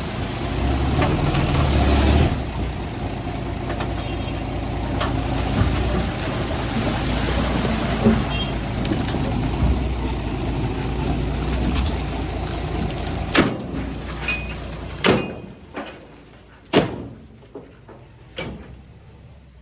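Heavy diesel earthmoving machinery running steadily, with a few sharp metallic clanks. About fifteen seconds in, the engine sound drops away and several more knocks follow.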